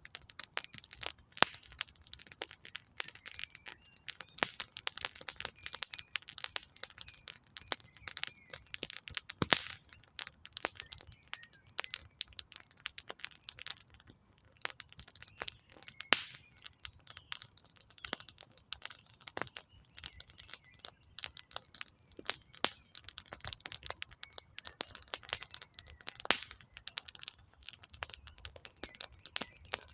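Wood campfire crackling, with a steady run of irregular sharp pops and snaps from the burning logs.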